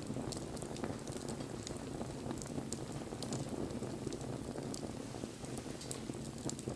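Wood bonfire burning steadily, with frequent small sharp crackles and pops over the low noise of the flames.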